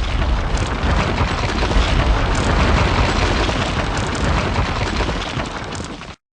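Explosion-like sound effect of a wall bursting apart: a dense blast with a heavy deep rumble. It starts abruptly and cuts off suddenly after about six seconds.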